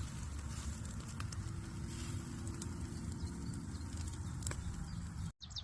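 Outdoor cooking fire crackling with a few sharp pops, over a steady low wind rumble on the microphone. The sound breaks off near the end, and a short bird chirp follows.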